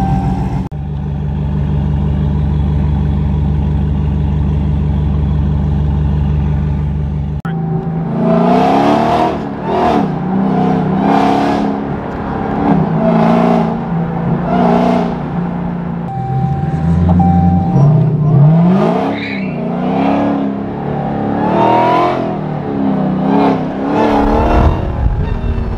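Supercharged 6.2-litre Hellcat Redeye V8 in a swapped Genesis coupe, heard from inside the cabin. It runs as a steady low drone for about seven seconds, then the engine note repeatedly climbs and drops as the car is driven hard.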